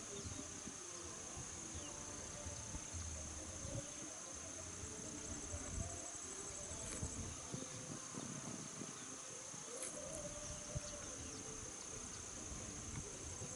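Insects trilling steadily with one continuous high-pitched note, over a low outdoor background.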